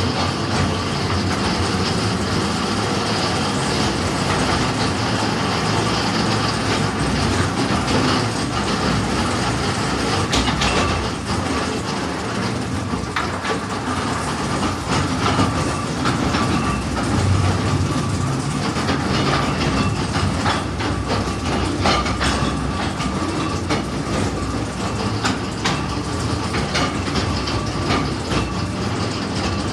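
Mine-tour rail cars rolling along the track, a steady rumble broken by frequent short wheel clacks.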